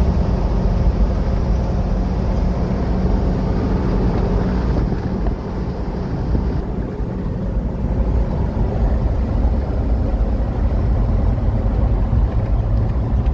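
A truck driving along, its engine and road noise making a steady low rumble; the higher hiss thins out about five seconds in.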